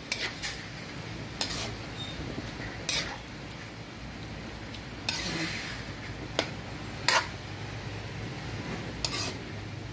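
Metal spoon stirring pork pieces in an aluminium wok: scattered sharp clinks of metal on metal every second or two, with a longer scrape about five seconds in.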